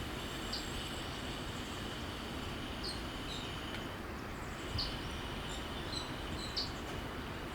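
Outdoor ambience: a steady background hiss with short high chirps repeating about every two seconds over a faint, steady high-pitched insect-like drone.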